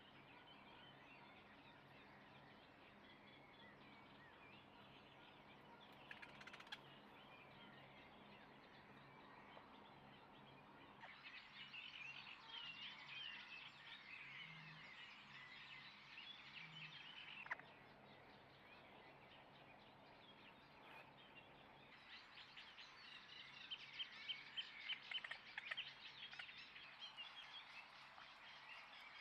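Faint outdoor background with two long runs of high, twittering chirp calls, the second near the end with louder, sharper notes.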